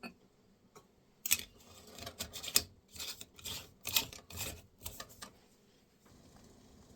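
Dried plant material rustling and crackling crisply as it is handled on a cloth towel: a run of quick dry crackles starting about a second in and stopping around five seconds in.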